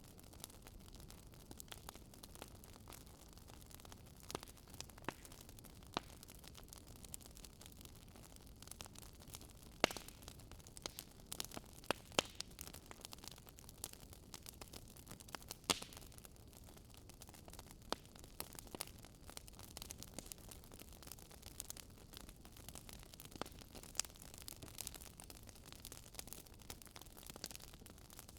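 Wood burning in a bonfire, crackling: irregular sharp pops and snaps over a low, steady hiss, with a handful of louder pops scattered through.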